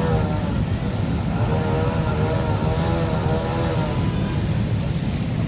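Motorbike traffic engines running on a flooded road, making a steady low rumble. A wavering engine note rises and falls over it from about one second to four seconds in.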